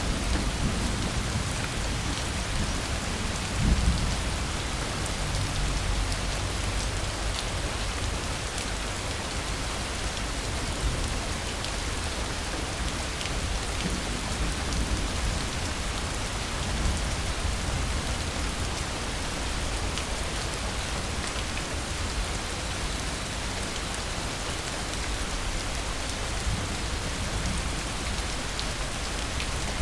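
Steady rain falling, an even hiss with a low rumble underneath. There is a brief low surge about four seconds in.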